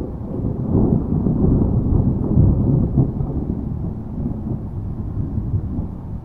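Low rolling thunder rumble that swells about a second in and eases off after about three seconds.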